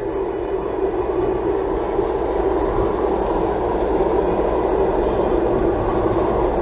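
Steady road and engine drone inside a Toyota Tank's cabin while it is being driven, an even, unbroken rumble with no changes.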